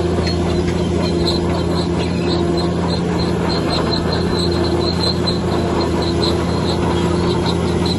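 Heavy diesel earthmoving machine running steadily, a constant engine drone with a held hum, over a rapid series of short high-pitched chirps, about three a second.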